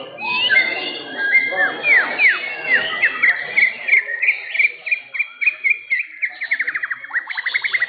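White-rumped shama (murai batu) singing loudly: a string of clear whistled notes, many sweeping steeply downward, then a rapid trill of quickly repeated notes near the end, over a faint background murmur.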